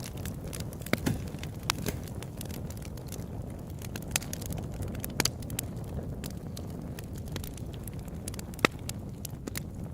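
Open-air campfire burning with a steady low rush and irregular sharp crackles and pops of burning wood, the loudest pop a little before the end.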